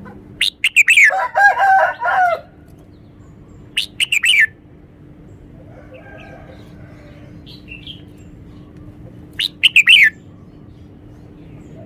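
Red-whiskered bulbul singing loud, clear phrases of sliding whistled notes. A long phrase comes about half a second in, a short one around four seconds, and another near ten seconds, with faint chirps in between.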